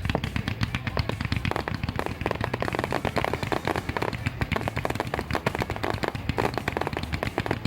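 Fireworks going off in rapid succession: a dense, continuous crackle of many small bangs layered over deeper booms.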